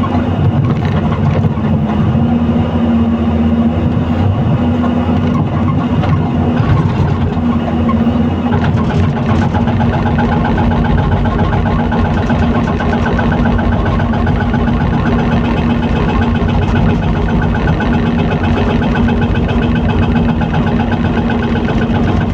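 Excavator's diesel engine running steadily under load, with a strong steady hum and a fast, even pulsing that grows more prominent about nine seconds in.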